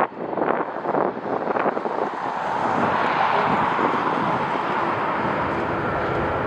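Strong wind gusting on the microphone, joined from about two seconds in by a jet airliner's engine noise that swells and holds steady.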